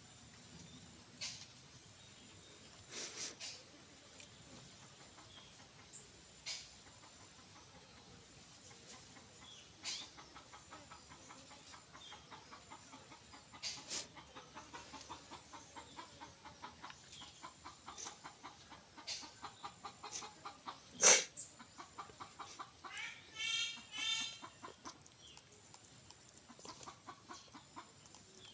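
Chicken clucking: a stretch of rapid low clucking in the middle, then two short squawking calls near the end. A steady high whine runs underneath, with scattered clicks and one loud sharp click just before the calls.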